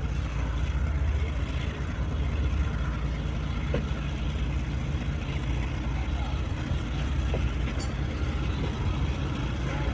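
Steady low rumble of a passenger train running, with a few faint voices of people nearby.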